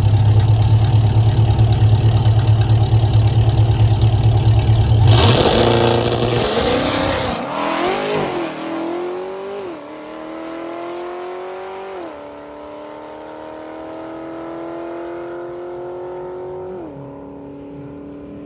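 C8 Corvette's V8 held at a loud, steady high rev on the drag-strip start line for about five seconds, then launching hard. The engine note climbs and drops back at each of about four quick upshifts as the car pulls away down the track, fading with distance.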